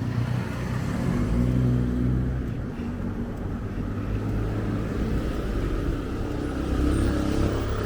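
Motor vehicle traffic close by: a low engine rumble whose pitch shifts as it goes, over road noise.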